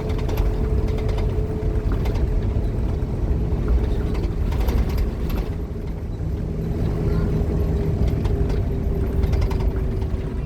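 Scania K230UB Omnilink bus under way: diesel engine rumble with a steady whine from its ZF Ecomat automatic gearbox, which dips slightly near the end. Scattered rattles and clicks run through it, with a cluster about halfway through.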